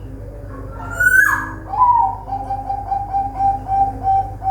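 Zebra dove (perkutut) cooing: a rising then falling note about a second in, then a rapid string of short, even coos that falls slightly in pitch. Fainter coos from other doves sound underneath, over a steady low hum.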